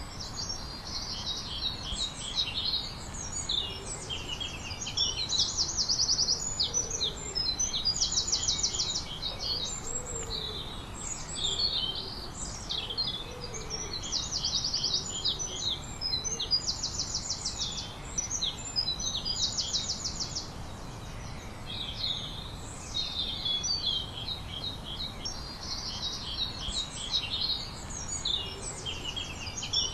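Several songbirds singing together: one repeats a fast trill of evenly spaced high notes, about a second long, every two to three seconds, while others add varied short chirps.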